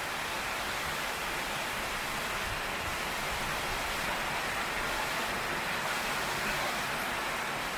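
Heavy tropical rain pouring steadily onto a tin roof, an even hiss with no thunder in it.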